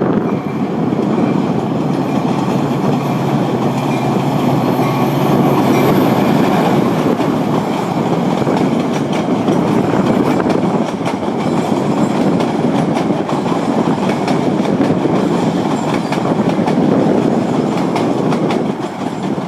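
A train passing by, its wheels running steadily on the rails with a continuous loud noise and faint repeated clicks from the wheels over the track.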